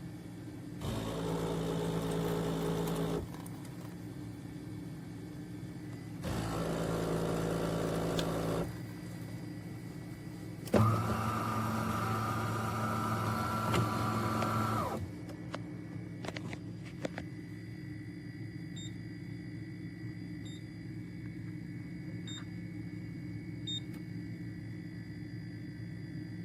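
A small electric motor runs in three separate bursts, the last about four seconds long and the loudest, followed by four faint, evenly spaced short beeps.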